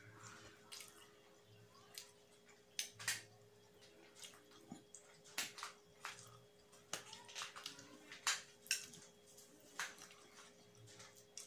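Close-miked eating sounds: wet chewing and mouth clicks coming at irregular moments, over a faint steady hum.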